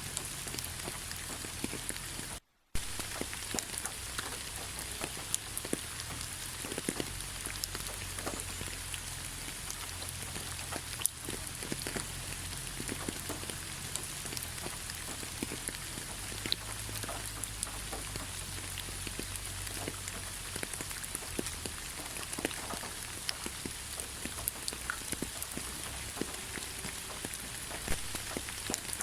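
Steady rain falling, with many separate drops striking close by among the even hiss. The sound cuts out to silence for a moment about two and a half seconds in.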